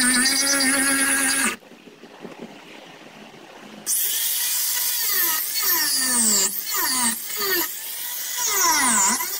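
Power grinder running with a steady high whine, then shut off about a second and a half in. After a couple of seconds of quiet it starts again, and its pitch drops sharply and climbs back over and over as it is pressed into the work under load.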